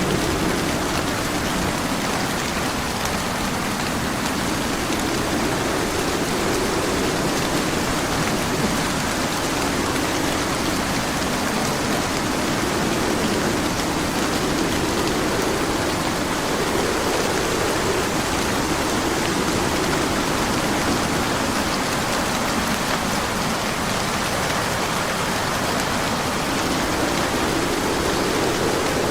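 Steady rain falling, an even hiss with a lower layer that swells and fades every few seconds.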